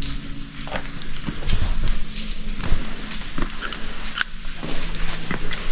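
Footsteps on loose lava rock: irregular knocks, clicks and scrapes of shoes on the basalt boulders of a cave scramble.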